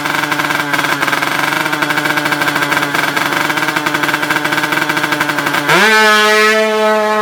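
Tuned two-stroke drag-bike engine running at steady revs with a fast, even pulsing. Near the end the revs rise sharply and hold high.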